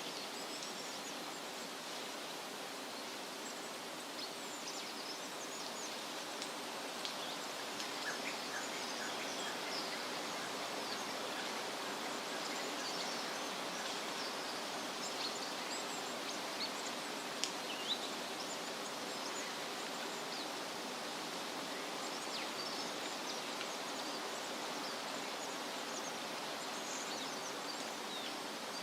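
Steady rustling of wind through leafy trees, with many small birds chirping faintly and intermittently throughout.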